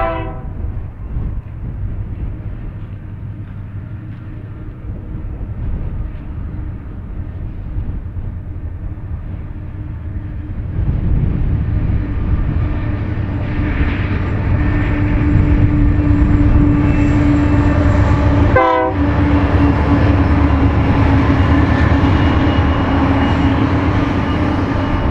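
Union Pacific freight train rumbling past, its engines and wheels growing louder about eleven seconds in, with a steady locomotive engine hum; the last of a horn blast cuts off right at the start.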